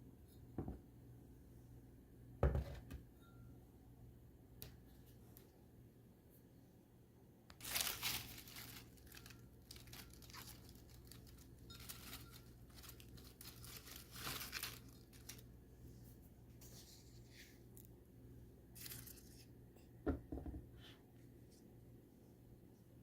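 Paper or plastic wrapping crinkling and tearing in short, irregular bursts, with a few knocks of objects being set down.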